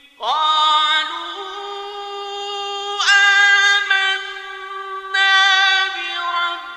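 Male Quran reciter chanting in the melodic mujawwad style, holding long high vowel notes with ornamented turns, in three phrases with a brief break near the end.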